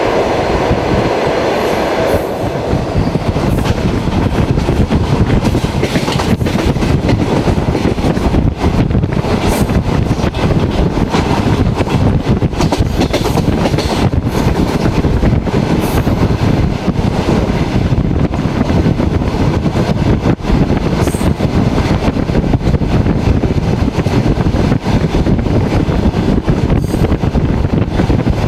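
Passenger train coach running along the track, heard from inside the carriage: a steady, loud rumble of wheels on rails, with sharp clicks every few seconds. The noise changes character about two seconds in.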